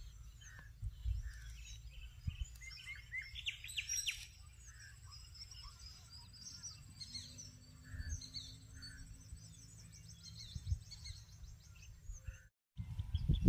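Small birds chirping and trilling in short repeated calls over a low steady rumble. Near the end the sound drops out for a moment and a much louder low rumbling noise begins.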